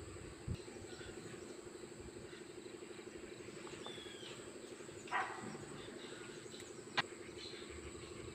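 A steady, fast-pulsing chorus of calling animals with a thin, steady high whine over it. A few short chirps sound through it, then a louder call about five seconds in and a sharp click about seven seconds in.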